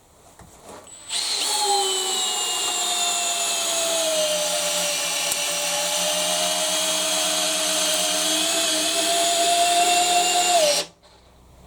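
Makita XPH06 18 V cordless drill on low gear driving a long landscape screw into Vitex hardwood. The motor starts about a second in, its pitch sags a little as the load builds, then runs steady and stops suddenly near the end.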